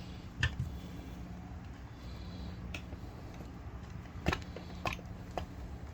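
Scattered sharp clicks and light knocks of a screwdriver and small parts against a septic aerator pump's housing, about five in all, the loudest a little past four seconds in, over a steady low hum.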